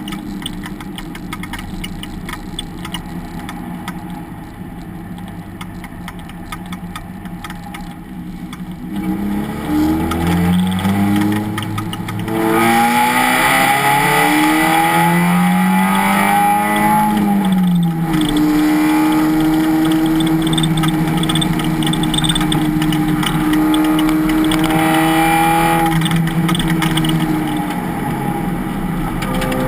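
Race car engine, quieter and steady for the first nine seconds or so. It then gets louder and accelerates, its pitch climbing and dropping back several times through the gear changes, and holds a steady note through the second half.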